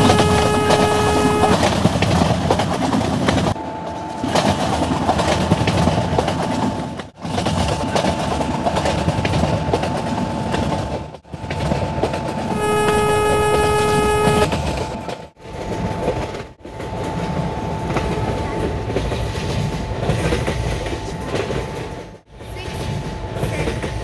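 Train running past with the rumble and clatter of wheels on the rails, and two blasts of a locomotive horn: one at the start lasting about a second and a half, another just past halfway lasting about two seconds. A steady high whine runs under the rumble from a few seconds in, and the sound drops out briefly several times.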